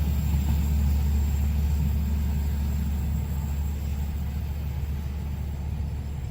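Steady low rumble of a vehicle, slowly fading.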